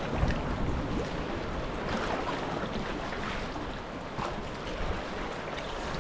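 Wind buffeting the microphone on a sea kayak out on choppy water, a steady rumble with scattered short splashes of water.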